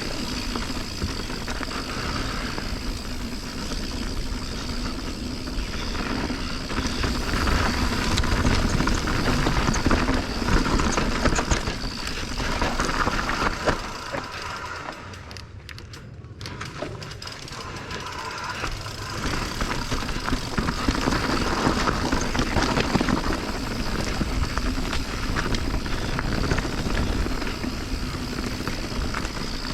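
Mountain bike ridden down a rough technical trail: tyres over rock and dirt, with the bike rattling and knocking under steady wind and rumble on the helmet microphone. It eases off for a few seconds midway.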